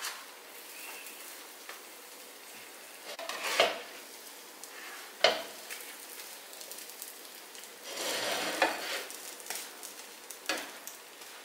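Stuffed crepe parcels sizzling in a little oil on a flat nonstick tawa as they are turned with a spatula. The spatula knocks sharply against the pan about three and a half and five seconds in, scrapes for a moment around eight seconds, and taps once more near the end.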